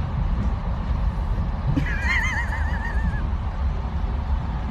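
Cat giving a high, wavering call lasting a little over a second, about two seconds in, over a steady low rumble.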